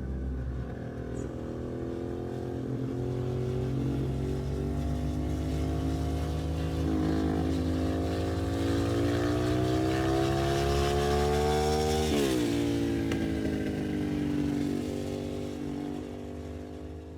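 Ducati 750 SS café racer's air-cooled V-twin engine under acceleration, its pitch climbing for several seconds, then dropping sharply as with a gear change and running on steadier before fading.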